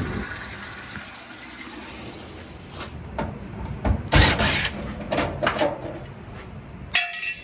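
Handling noises at the back of a dryer while a power cord is fitted: a run of short scraping and rustling strokes through the middle, then a sharp metallic clink near the end.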